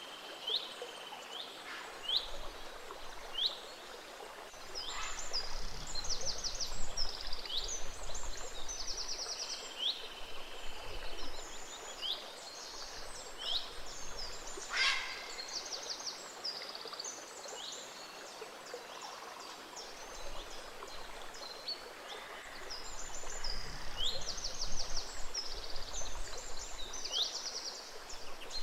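Gentle stream flowing over a chorus of songbirds, with many short repeated chirps and quick trills and one louder call about halfway through.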